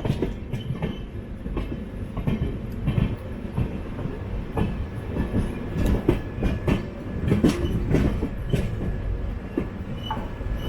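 Passenger train running slowly over points onto the main line: a steady rumble of the coaches with irregular clicks and knocks of the wheels over rail joints and crossings.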